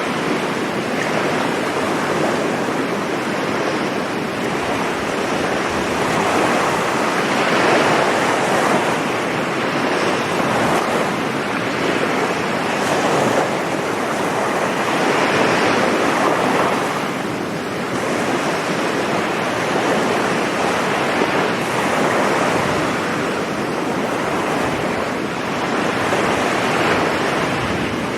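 Sea waves breaking and washing up a sandy beach, a continuous surf rush that swells and eases every few seconds. Wind buffets the microphone.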